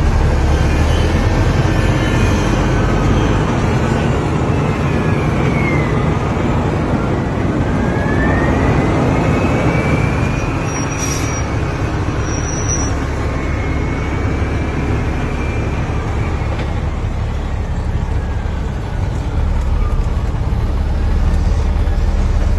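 Heavy diesel dump truck engine running steadily, with a whine that rises and falls in pitch as it works. Two short high-pitched tones sound about halfway through.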